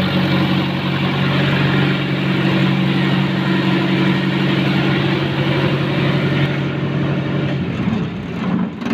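Ricardo diesel engine of a 50 kVA generator set running steadily at constant speed, its note stopping about eight seconds in.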